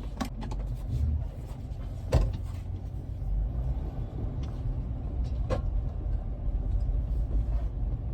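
Vehicle driving, heard from inside the cabin: a steady low engine and road rumble, with a sharp knock about two seconds in and a lighter one about five and a half seconds in.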